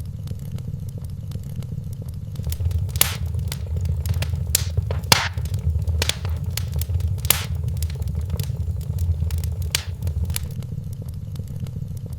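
Wood fire crackling in a fireplace, with sharp irregular pops over a low steady rumble of flame. The pops come thicker and louder through the middle of the stretch.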